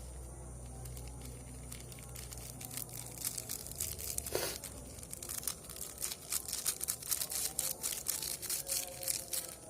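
Close-miked crunchy chewing: a person eating food with a crisp bite, the crunches coming thicker and louder from about three seconds in.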